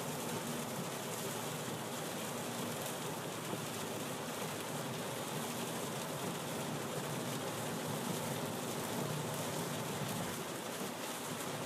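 Steady heavy rain falling on a moving car's windshield and roof, heard from inside the cabin, mixed with tyre noise on the wet road.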